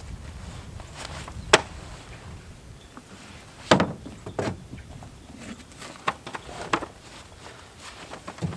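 Scattered knocks and bumps as a person moves about in a pickup-truck bed under a soft topper, getting shoes on; six or so separate sharp knocks, the loudest about a second and a half in.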